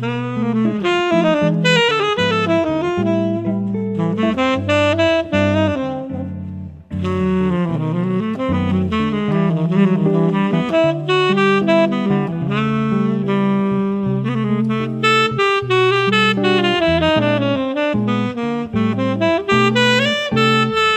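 Jazz instrumental break: a lead melody line solos over bass and chords. The music drops out briefly about seven seconds in.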